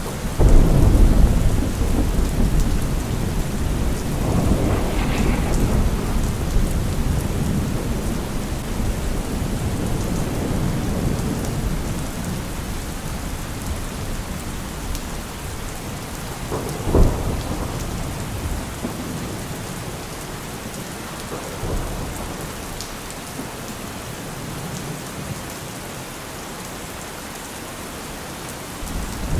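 Heavy rain falling steadily with rolling thunder. A loud rumble comes about half a second in and dies away over several seconds, a sharper thunderclap cracks about halfway through, and the thunder eases near the end.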